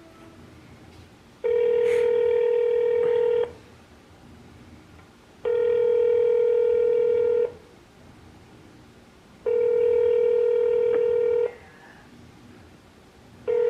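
Telephone ringback tone heard through a phone's speaker while the call is put through to a representative: three long steady rings of about two seconds each, two seconds apart, with a fourth starting near the end.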